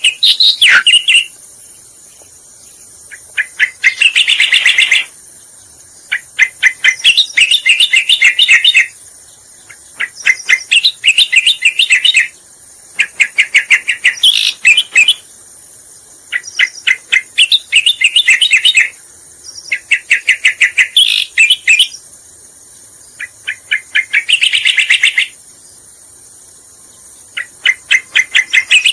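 Cica koreng (cucak koreng) lure song: repeated loud phrases of rapid, chattering notes, each lasting two to three seconds with short pauses between, about ten in all. A steady high hiss runs underneath.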